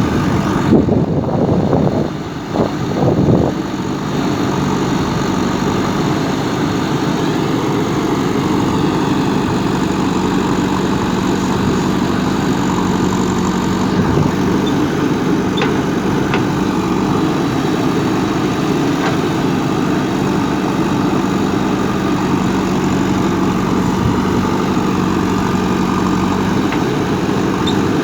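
Backhoe loader's diesel engine running steadily with an even hum, briefly unsteady with a dip in level about two to three seconds in.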